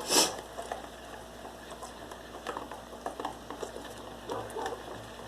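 Thick wet batter being stirred with a whisk in a bowl: irregular squelching and small clicks of the whisk against the bowl, with a sharper clink about a quarter second in.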